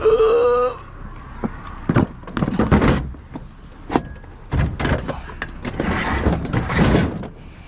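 Scrap items being handled and loaded: a run of irregular knocks, clatters and scrapes, opening with a brief pitched squeal or vocal sound in the first second.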